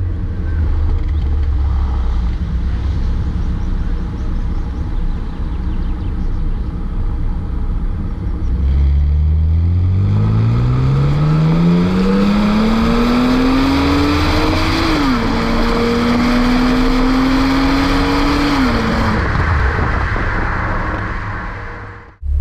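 BMW Z4 Coupé 3.0si's straight-six engine through a Reuter Motorsport S exhaust, running steadily at low revs, then accelerating hard from about nine seconds in. The revs climb steadily, drop once at an upshift of the automatic gearbox, climb a little more, then fall away as the throttle is lifted. The sound cuts off suddenly near the end.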